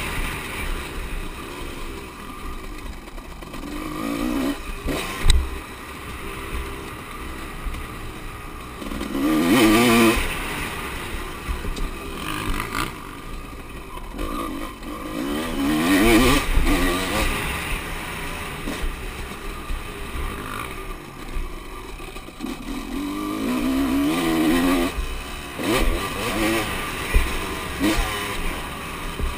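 Motocross bikes revving and passing several times, each pass swelling and fading as the engine pitch climbs and drops. There is a sharp click about five seconds in.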